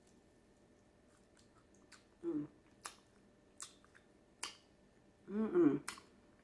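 A person chewing a mouthful of chicken wing, with several wet smacking clicks of the mouth. Two short closed-mouth hums come through, a brief one a couple of seconds in and a louder one near the end.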